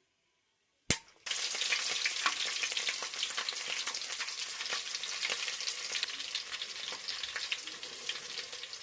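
A sharp click about a second in, then something hits hot oil in a cooking pot and sizzles at once, a dense crackling spatter that carries on and eases slightly near the end.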